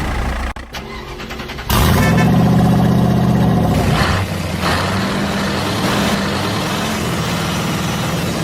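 Vehicle engine starting: after a brief drop, the engine catches suddenly just under two seconds in and runs loud with a steady low hum, then settles to a quieter steady run from about four seconds.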